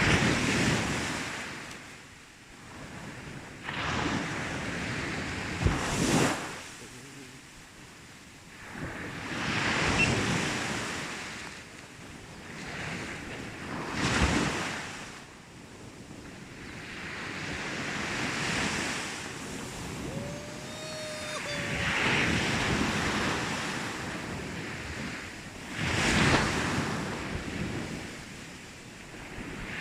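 Sea waves breaking on a sandy beach, each wash swelling and fading every few seconds, with wind buffeting the microphone.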